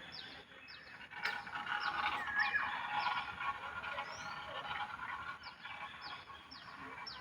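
Wild birdsong: one bird repeats a short, high call that sweeps downward, about once a second, with other birds chirping behind it. The chirping behind is busiest in the first half.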